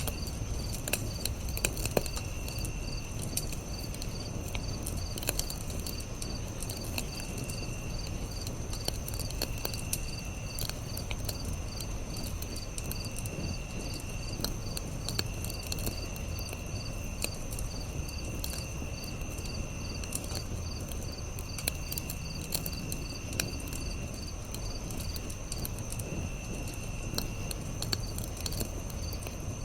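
Campfire crackling with scattered sharp pops, over a steady chorus of crickets. A higher insect trill sounds for about a second at a time, every couple of seconds.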